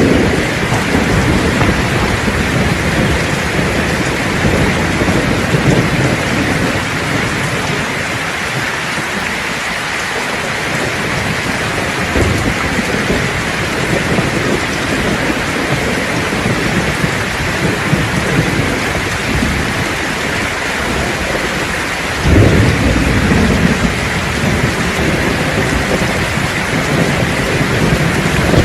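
Steady heavy rain with rolling thunder; a sharp, louder thunderclap breaks about 22 seconds in and rumbles on for a few seconds.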